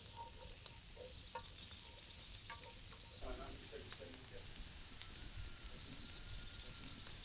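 Diced onion sizzling steadily in hot rendered meatball fat in a cast iron pan, with a few sharp clicks along the way.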